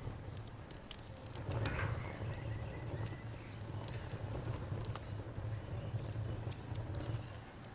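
Crickets chirping in a steady, fast pulsing trill over a crackling campfire with sharp pops, and a frog calling briefly about two seconds in.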